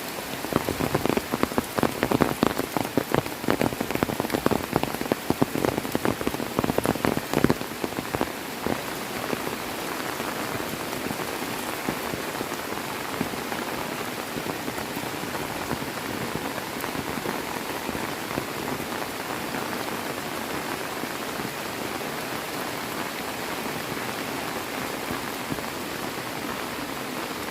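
Heavy rain. For the first nine seconds or so, loud, uneven close-by drops patter over the downpour; after that it settles into a steady, even hiss of rain.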